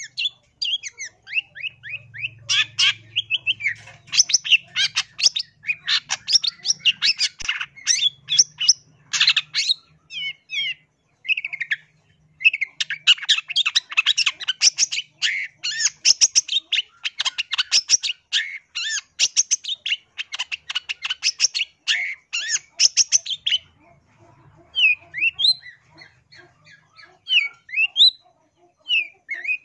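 Long-tailed shrike (cendet) singing a fast, scratchy chattering song of rapid high notes, thinning to scattered single notes near the end.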